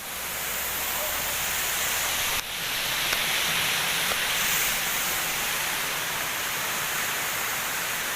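Steady rushing noise of a waterfall close by, with a sudden break about two and a half seconds in, after which the rush is fuller and brighter.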